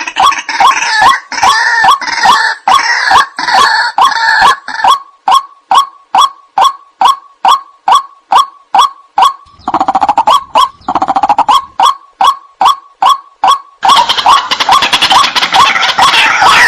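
White-breasted waterhens (ruak-ruak) calling: a loud, repeated croaking 'kru-ak' about three times a second, joined in stretches by other birds calling over it in a dense, harsh chorus.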